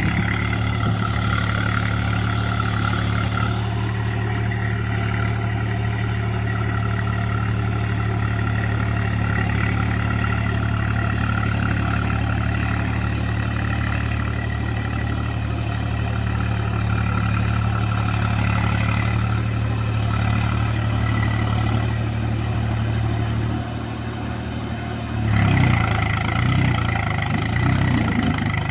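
Swaraj 735 FE tractor's three-cylinder diesel engine running steadily under load in low gear while pulling its cage wheels through a soft, puddled paddy field. Near the end the sound turns louder and uneven.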